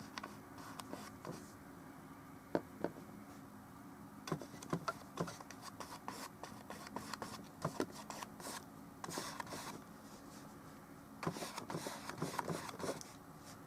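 Paintbrush working oil paint onto a canvas panel: short scraping strokes and scattered light taps, with longer scrubbing bouts about nine seconds in and again from about eleven seconds in.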